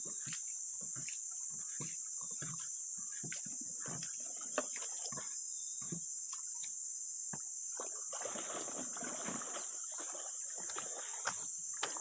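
A steady high-pitched insect drone over irregular clicks, knocks and rustling, with a denser burst of rustling about eight seconds in.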